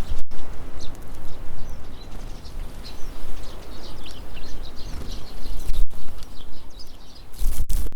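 Wind rumbling on the microphone, with many short, high chirps of tits calling throughout.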